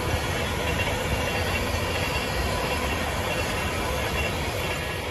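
A passenger train running past on the main line: a steady rumble and rush of wheels on rail, with a few faint steady tones over it.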